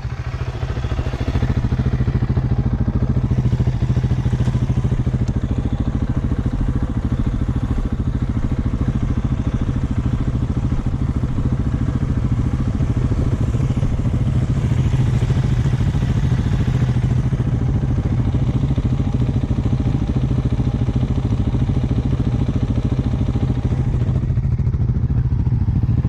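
Dirt bike engine running steadily as the bike is ridden along a dirt track, picking up a little in the first couple of seconds.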